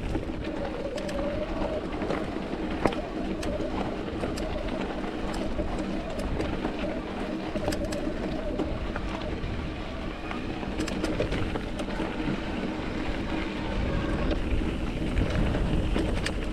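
Mountain bike rolling over a dirt and rock trail: steady tyre and ride noise with scattered sharp clicks and knocks from the bike rattling over the ground.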